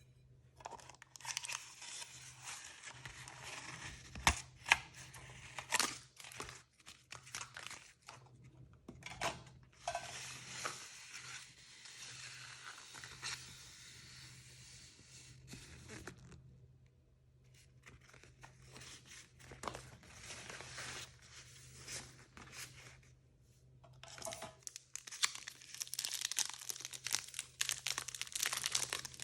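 Blind-bag packaging being torn open and crinkled by hand: rustling with sharp clicks and snaps, in four spells separated by short pauses.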